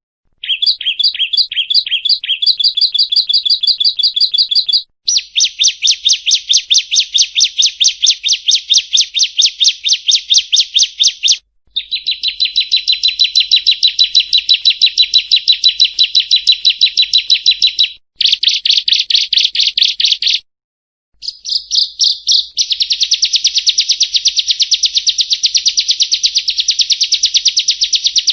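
Prinia (perenjak) song: long runs of rapid, high, repeated notes at about seven a second, in several bouts separated by brief pauses. The first bout is a slower series of paired notes.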